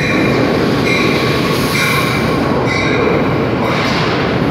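Amtrak electric passenger train rolling past along the platform: a loud, steady rumble of wheels on rail, with a high tone that sounds in short pulses about once a second.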